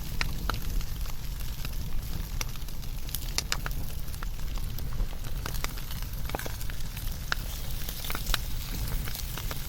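Fire burning and crackling, with irregular sharp pops and snaps over a steady low rumble.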